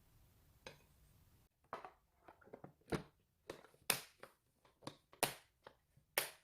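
A series of about a dozen sharp, irregular clicks and knocks, starting about a second and a half in.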